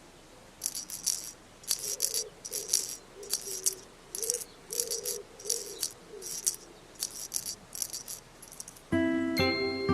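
Shaker rattle sound effect, shaken in a steady rhythm of about one or two shakes every 0.6 s, with a soft wobbling low tone under some of the shakes. Near the end a glockenspiel-like music cue comes in.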